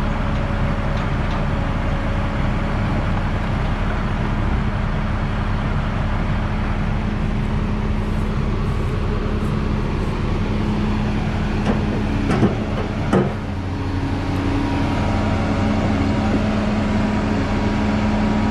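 Heavy diesel equipment engine running steadily, with two sharp knocks about twelve and thirteen seconds in.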